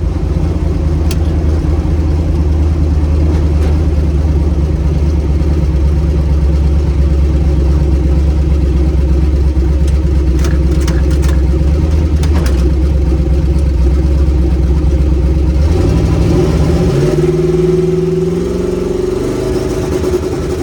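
Turbocharged LS V8 engine of a Chevy S10 drag truck running steadily under way, a loud, deep drone. About 16 s in the engine note drops and then changes pitch in a few steps.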